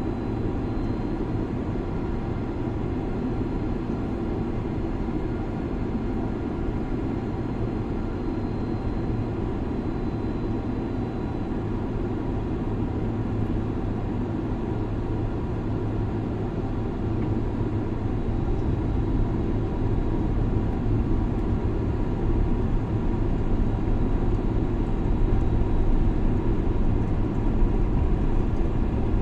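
Steady drone of a jet airliner heard from inside the cabin during its descent: engines and airflow, a low rumble with a faint steady hum above it. It grows a little louder in the second half.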